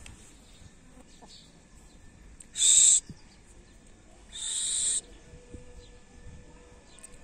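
Two loud, shrill bird calls about a second and a half apart. The first is short and the loudest. The second is longer and a little quieter.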